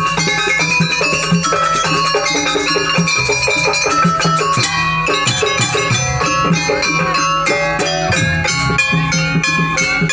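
Jaranan music from a gamelan ensemble: struck metal-keyed instruments play a busy melody of short notes over drums, growing denser about halfway through.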